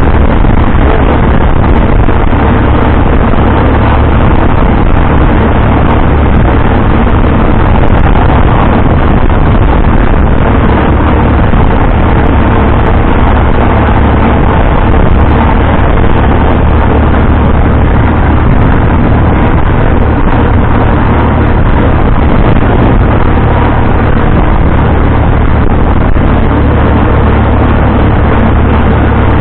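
Tractor engine running steadily and loud, a constant low drone with no change in speed.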